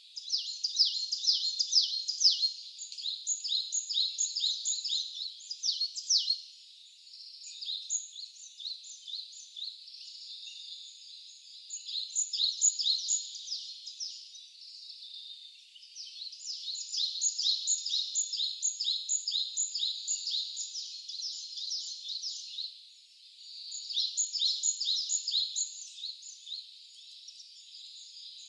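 Wild songbirds singing in long, rapid trilling bouts of several seconds each, with short pauses between, over a faint steady hiss of the mountain brook.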